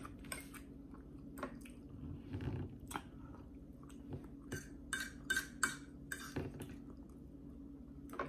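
A person chewing food close to the microphone, with scattered short mouth clicks and light clinks of a fork on a plate over a steady low hum.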